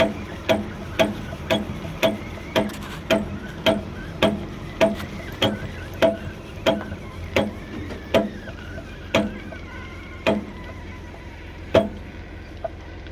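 Wood chipper's motor clutch knocking: a loud regular knock, about two a second at first, slowing steadily and stopping near the end, over a low hum.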